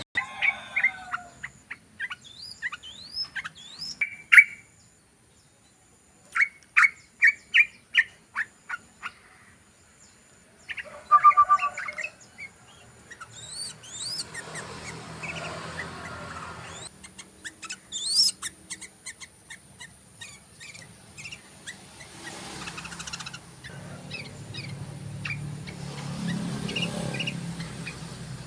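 Yellow-vented bulbul (trucukan) calling in bursts of short, sharp chattering notes, the 'cruk-cruk-cruk' of the species, including a run of about six evenly spaced loud notes. A low rumble runs beneath the later calls.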